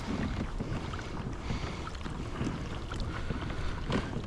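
Kayak moving through water: water splashing and lapping against the hull, with wind rumbling on the microphone.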